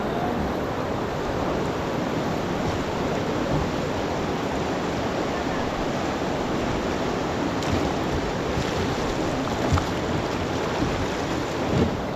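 Steady rushing of river water around a raft, with a couple of brief knocks near the end.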